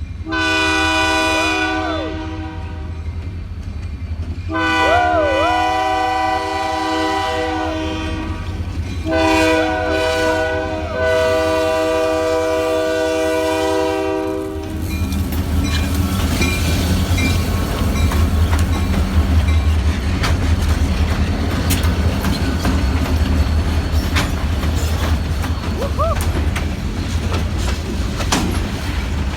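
Freight locomotive's horn sounding three long blasts, each a multi-note chord, as a crossing warning. About halfway through the horn stops and the rumble of the train and the clickety-clack of rail cars rolling over the rail joints take over.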